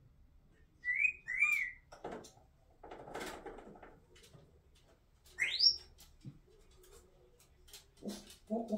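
Congo African grey parrot vocalising: two short arched whistles about a second in, some rough, noisy calls, a quick rising whistle, and near the end a rapid run of low, pulsed notes.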